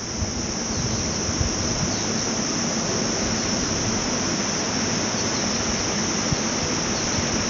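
Steady, high-pitched insect chorus over an even rushing noise.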